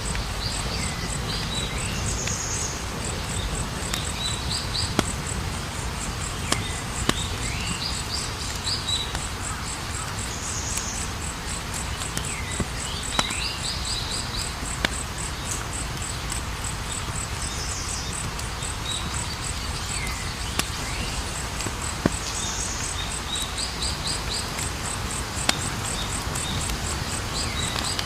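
Campfire burning with a low steady rush and scattered sharp crackles and pops. Over it crickets trill without a break, and a chirping call repeats about every four seconds.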